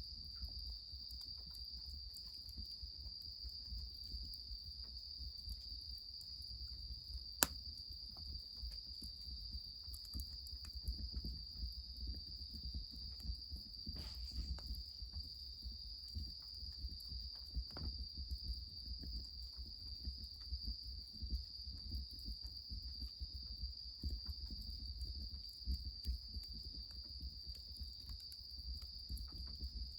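Steady high-pitched insect trilling, typical of crickets, over the soft irregular crackle of a wood fire. One sharp crack about seven seconds in.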